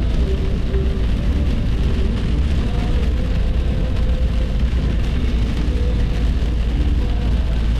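Steady road noise inside a moving vehicle at highway speed: a constant deep rumble with tyre and wind hiss over it.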